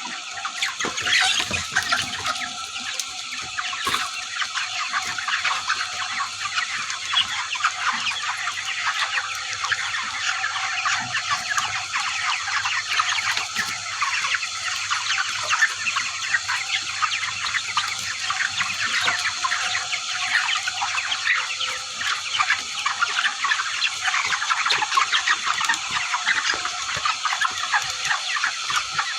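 A large flock of chickens calling continuously, many overlapping short calls, over a faint steady low hum.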